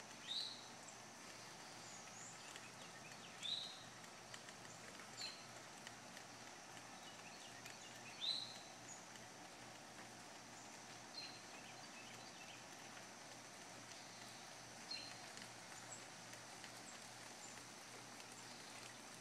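A bird chirping, about six short calls a few seconds apart, over a faint steady high hiss of outdoor ambience.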